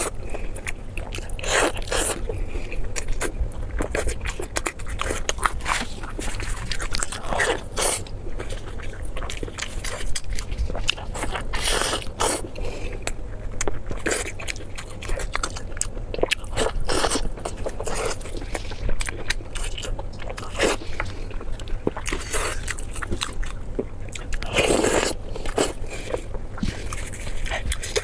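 A person chewing and biting food close to the microphone: irregular sharp clicks and crunches, several a second, with louder bites scattered throughout.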